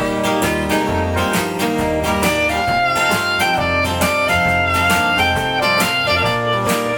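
A live acoustic folk band plays an instrumental break between sung verses: a strummed guitar keeps the rhythm under a melody of held notes, with a bass line.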